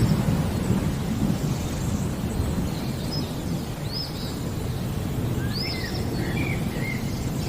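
Thunder rumbling low over steady rain, the rumble easing off after the start. A bird calls in short, arching chirps a few times, with a quick run of lower notes about six seconds in.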